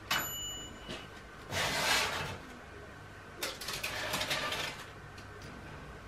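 A sharp click, then two longer sliding, scraping noises about a second and a half apart, like a drawer or sliding door being worked in a small room.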